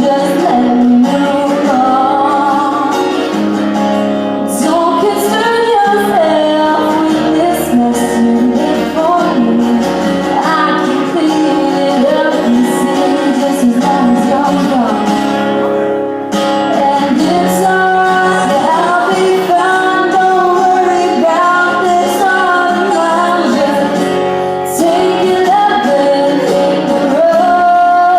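A woman singing a country song live, accompanied by strummed acoustic guitar.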